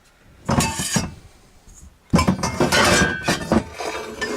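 Pans and other galley items clanking and clinking as they are handled and moved about in a locker: a short clatter about half a second in, then a longer run of clattering from about two seconds in.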